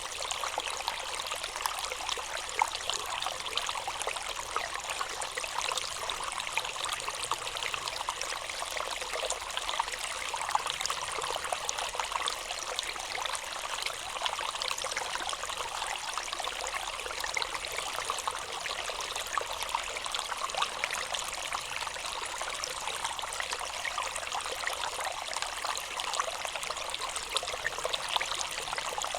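Water trickling and splashing steadily, an even running-water sound with no breaks.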